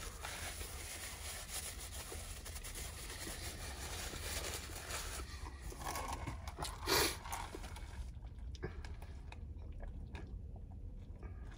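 A person chewing chicken nuggets close to the microphone, with small clicks and rustles of the cardboard nugget box and one louder bump about seven seconds in; it goes quieter near the end.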